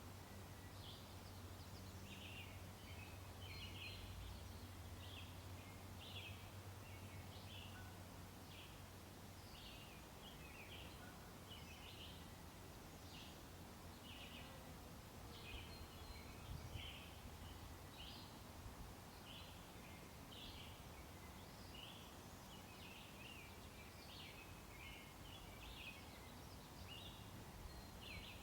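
Wild songbirds singing and chirping faintly: a steady run of short, high calls, several a second, over a quiet outdoor background with a low hum that fades out about nine seconds in.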